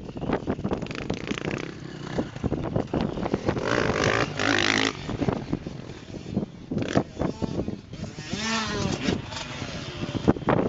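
Motocross dirt-bike engines revving, rising and falling in pitch, with a burst of engine noise about four seconds in and another surge of revving near the end, over a constant rumble of knocks and handling noise on the microphone.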